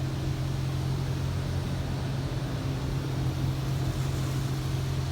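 PDQ LaserWash 4000 automatic car wash running: a steady low hum with an even hiss of noise over it, unchanging throughout.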